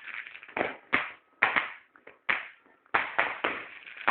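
Fireworks going off: a rapid, irregular series of sharp bangs, about eight in four seconds, each with a short fading echo.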